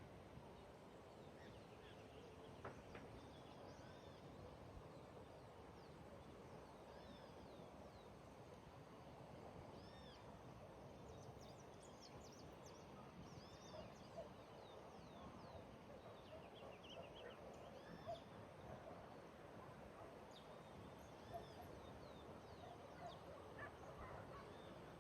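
Faint birdsong: many short, high chirps and whistled notes from several small birds, over a steady low background hiss of outdoor ambience.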